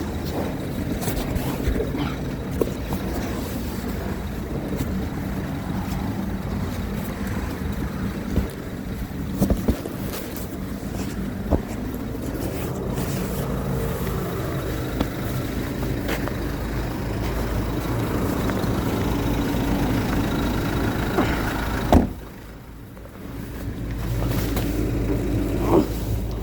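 A motor vehicle's engine running steadily, with a few sharp clicks and knocks over it. About 22 seconds in the sound drops away for a couple of seconds, then comes back.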